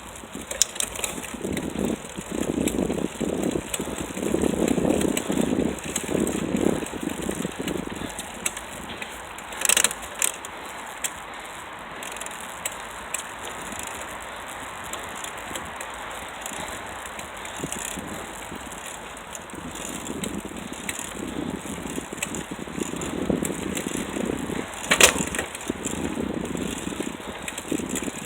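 A bicycle being ridden, with rough, uneven rattling that swells and fades, and two sharp knocks, one about ten seconds in and one near the end.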